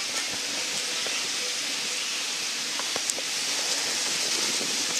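Steady hiss of water spraying and running down an inflatable water slide, with a couple of short clicks about three seconds in.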